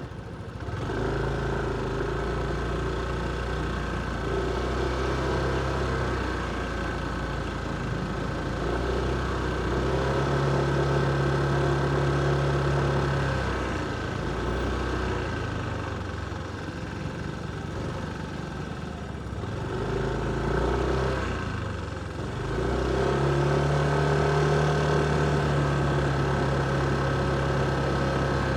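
Motorcycle engine running beneath the rider, picking up and holding speed three times and easing off in between, with steady road and wind noise.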